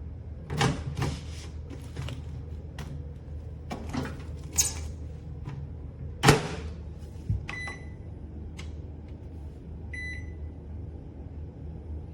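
Countertop microwave oven running with a steady low hum, with several sharp clicks and knocks in the first half and two short beeps in the second half.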